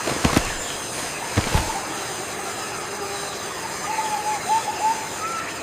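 Rainforest ambience: a steady hiss with faint high, even tones, two pairs of low thumps in the first two seconds, and a short run of chirping calls about four to five seconds in.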